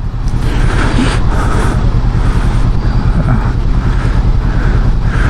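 Honda CB500X parallel-twin motorcycle engine running steadily, with road and wind noise over it.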